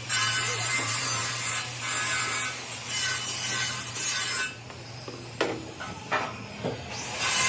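A tool working the metal of a truck frame: a steady rasping, scraping noise over a low hum for about four and a half seconds, then it drops away, leaving a few short knocks.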